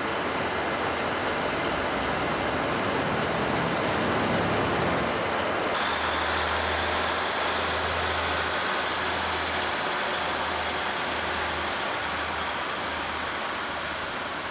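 Diesel suburban railcar set running through the station with a steady rushing noise. After about six seconds the sound changes abruptly, and a low throb pulsing about once a second comes in.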